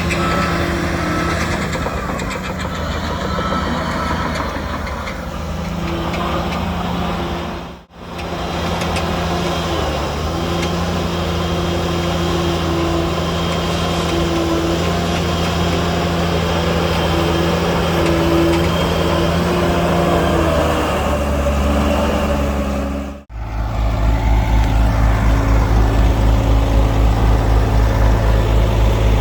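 Heavy diesel engines of earthmoving machinery, a bulldozer and dump trucks, running steadily. The sound drops out sharply twice, about a quarter and three-quarters of the way in. After the second dropout a deeper, louder engine throbs with an even pulse.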